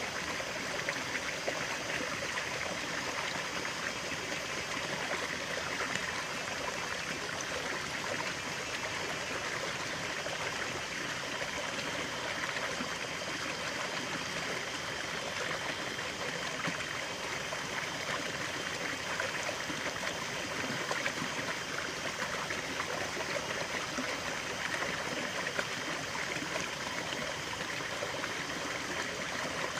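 A stream of running water flowing steadily over stones, a continuous babbling rush with a trickling edge.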